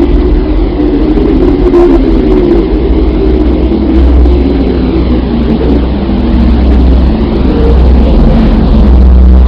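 Deep, steady rumbling drone with a churning, noisy texture. It is a space 'planet sound' of the kind NASA made by converting spacecraft radio and plasma-wave data into audio.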